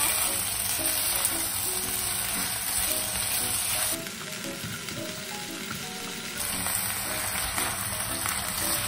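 Chicken pieces sizzling in oil in a claypot, scraped and stirred with a silicone spatula. The sizzle is quieter for about two seconds near the middle.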